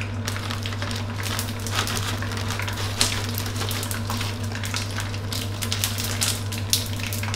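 Dried tofu skin sheets frying in hot oil in a wok: a dense, steady sizzling crackle with sharper pops now and then, as the skins puff and crisp. A steady low hum runs underneath.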